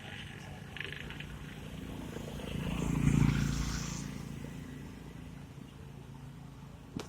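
A motor vehicle passes close by: its engine and tyre noise swell to a peak about three seconds in, then fade away.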